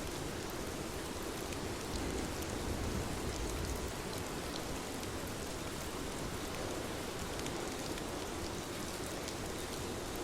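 Steady rain falling, with many individual drops ticking through the hiss.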